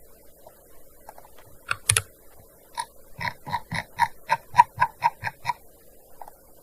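Typing on a gaming keyboard: a couple of keystrokes, then a quick run of about a dozen key clicks at roughly four to five a second, stopping near the end.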